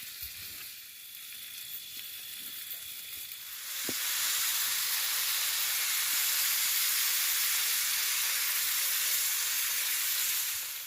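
Food sizzling as it fries in a hot pan. The sizzle turns much louder about four seconds in, holds steady, then drops away shortly before the end.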